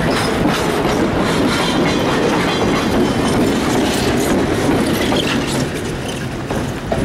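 Passenger train cars rolling past close by, steel wheels clicking and clattering over the rail joints in a steady rush.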